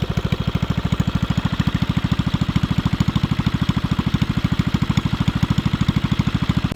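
Minibike's 196cc single-cylinder four-stroke engine idling steadily through its stage 1 header, with an even pulse of about fourteen beats a second.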